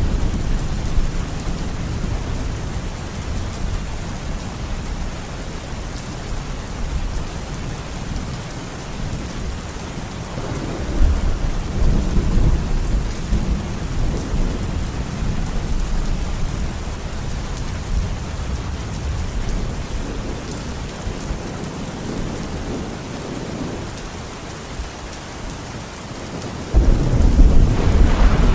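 Steady rainfall with low rolling thunder; the thunder swells about a third of the way in and breaks into a sudden louder rumble near the end.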